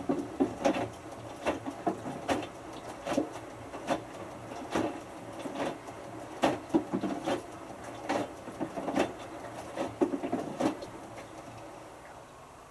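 Hotpoint Futura HF8B593 washing machine drum tumbling a tiny load of three t-shirts early in its whites cycle. It makes a run of soft knocks and swishes, about one a second, that starts suddenly and stops about eleven seconds in.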